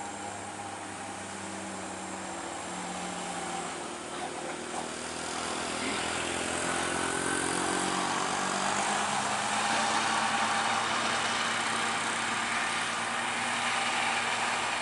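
An old truck's engine running under load, growing louder over the first half and then holding steady, as a truck climbing a steep grade.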